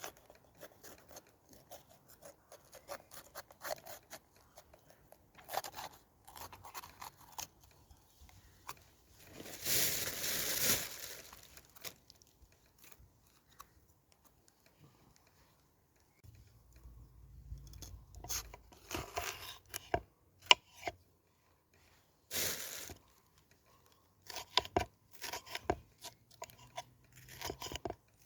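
A red pepper being cut up with a knife: crisp crunching and snapping cuts in irregular clusters. About ten seconds in comes a louder noisy rush of tearing or rustling that lasts about two seconds.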